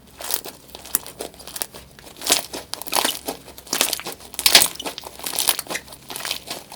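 Slime being squeezed and pressed by hand, giving irregular crinkly, crackling noises, some strokes louder than others.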